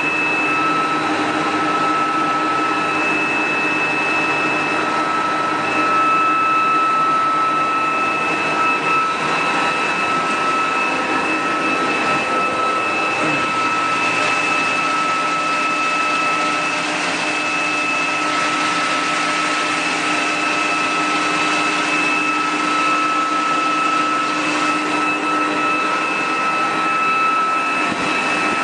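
Haas TL3B big-bore CNC lathe running with its spindle turning steadily at about 400 RPM. It makes a constant high-pitched whine over an even mechanical hum.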